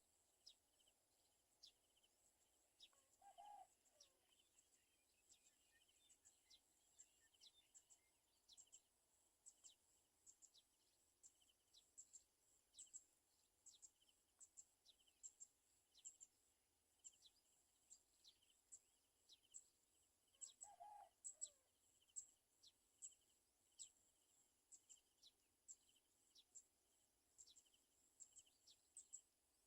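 Faint, short, high-pitched bird chirps repeating irregularly, with two lower, brief calls, one about three seconds in and one about twenty seconds in.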